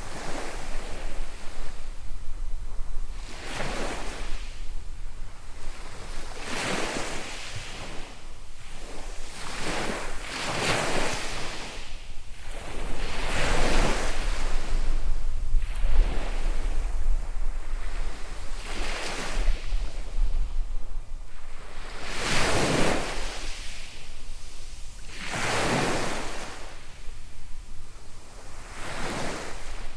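Small waves breaking and washing up a sand beach, a swell of surf every two to three seconds, with a low wind rumble on the microphone.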